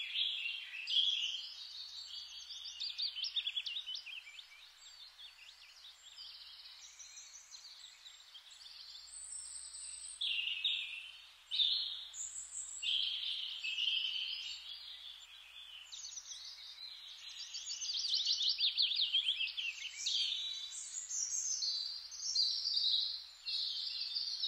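Songbirds singing, a run of varied chirps and fast trills.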